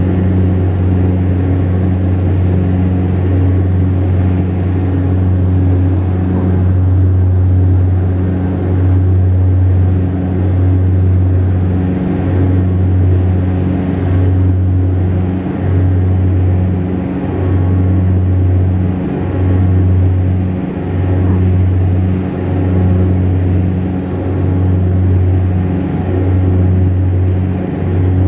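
Steady drone of a Saab 340B's twin turboprop engines and propellers heard inside the cabin, a deep hum that rises and dips every second or two as the two propellers beat against each other.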